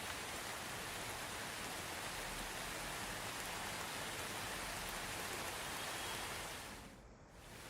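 Soft rain falling in a steady hiss, dipping away briefly and coming back near the end.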